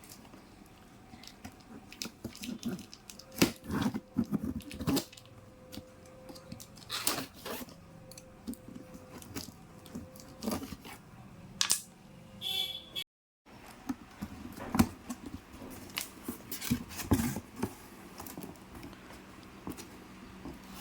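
A cardboard fan box being opened by hand and its packing handled: irregular tearing, crinkling and knocks, with a brief gap of silence about two-thirds through.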